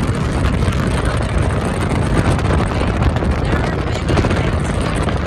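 Steady road noise of a moving car, a low rumble with wind rushing.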